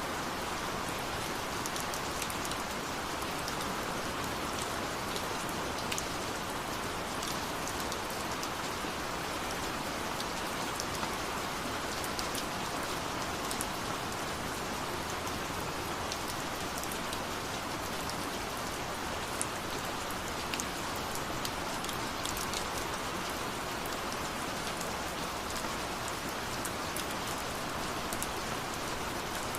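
Steady rain falling, with many scattered drops tapping sharply through the even hiss.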